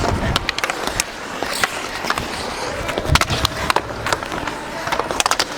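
Hockey skates scraping and carving on the ice with frequent sharp clacks of sticks and puck, heard through a player's body-worn microphone during play.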